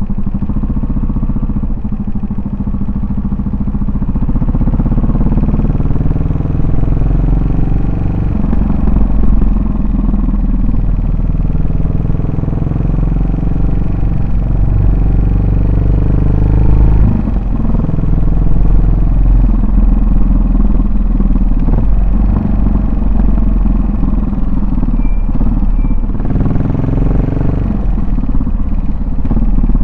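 Yamaha SR400's single-cylinder four-stroke engine and exhaust under way. The pitch climbs several times as it speeds up and drops back when it eases off, with a deeper dip about 17 seconds in and another climb near the end.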